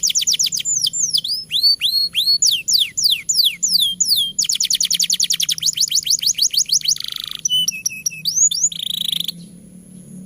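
Domestic canary singing a long, continuous song: fast trills of repeated down-sweeping notes, then slower swooping notes, then another fast trill and a few buzzy notes; the song stops about nine seconds in.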